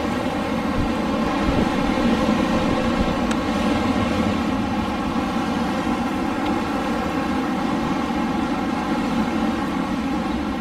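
Steady rushing wind, an even roar with no gusts or breaks.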